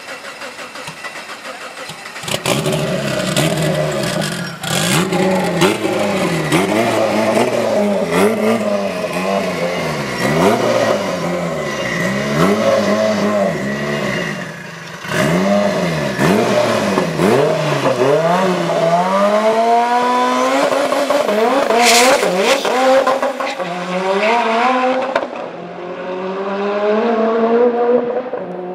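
Turbocharged AWD Mitsubishi Mirage drag car's engine revving hard on the start line, its speed rising and falling about once a second. It then launches and accelerates through the gears, rising in pitch and dropping at each shift about every two seconds, with a sharp crack at one shift.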